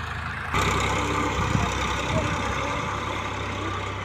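Tractor engine running steadily, suddenly getting louder about half a second in.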